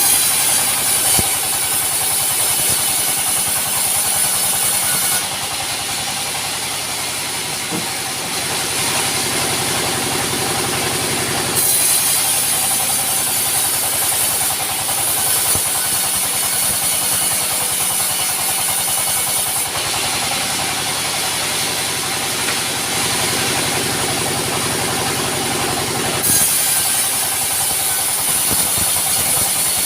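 Sawmill running: an engine drones steadily while the saw cuts timber, with a high hissing that comes in for stretches of several seconds at a time as the blade runs through the wood and drops back between passes.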